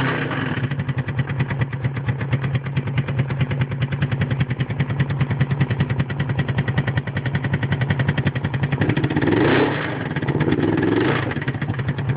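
Suzuki GS500's air-cooled parallel-twin engine idling with a rapid, even pulse, revved briefly twice near the end. It carries a weird engine noise that the owner cannot identify.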